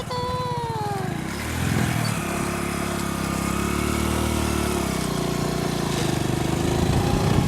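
Motorcycle engine running while riding; its pitch drops about a second or two in, then holds steady, with wind and road rush around it.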